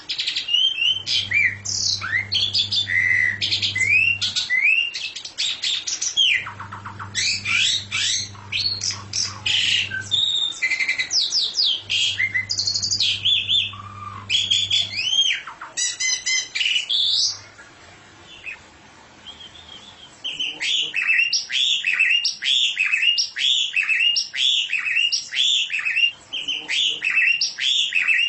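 A songbird singing a varied song of whistled, sliding notes. After a short break about 17 seconds in, it switches to a fast run of repeated chirps. A low hum comes and goes behind the song in the first half.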